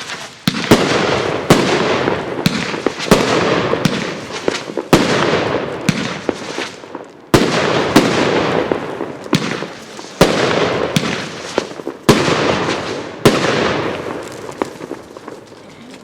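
A consumer fireworks cake firing shot after shot, about one a second: each sharp launch bang is followed by the crackle of its strobe stars. The shots stop about 13 seconds in and the crackle dies away.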